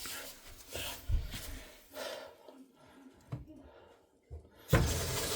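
A few knocks and breathing, then near the end water suddenly gushes from a newly installed kitchen faucet, opened on the cold side, and runs hard into the sink.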